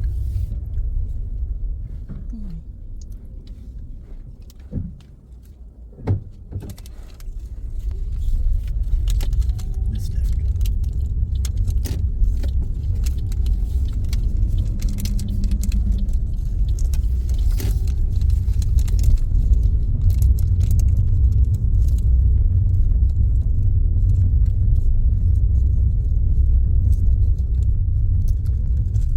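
Road and engine rumble inside a moving car. It drops for a few seconds as the car slows, as for a left turn, with two sharp knocks in the quieter stretch. It then builds again and holds steady as the car picks up speed.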